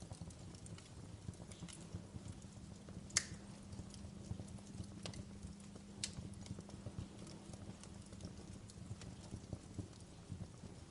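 Wood fire crackling in a fireplace: scattered sharp pops and snaps over a low steady rumble of burning, with one louder pop a few seconds in.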